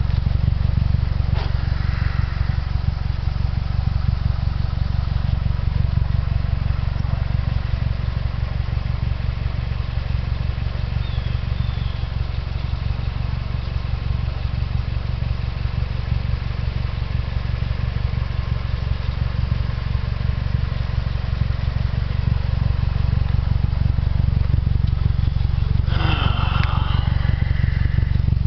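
Mazdaspeed3's turbocharged four-cylinder idling steadily with a deep, even rumble; its turbocharger is failing and burning oil. A brief higher, wavering sound comes in twice, about two seconds in and near the end.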